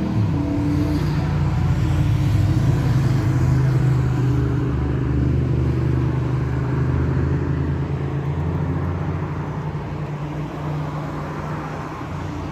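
Loud, low droning hum of several steady tones held together, swelling over the first few seconds and slowly easing off near the end: the unexplained noise from the sky.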